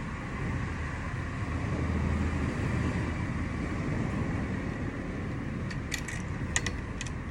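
Low outdoor rumble that swells over a couple of seconds and then eases, with a few sharp clicks near the end.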